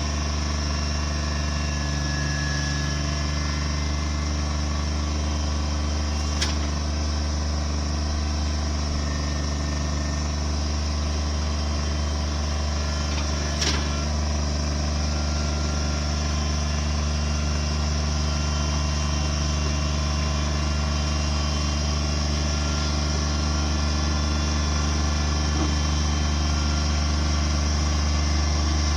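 A machine's engine running at a steady speed with a low, even drone, likely equipment at work clearing land. Two brief clicks sound over it, about six and fourteen seconds in.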